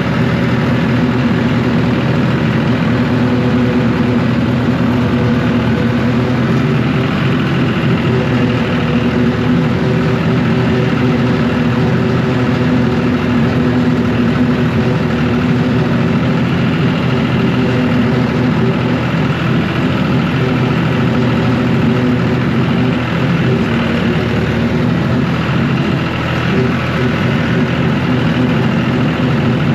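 John Deere tractor engine running steadily, powering a bush hog rotary cutter through pasture.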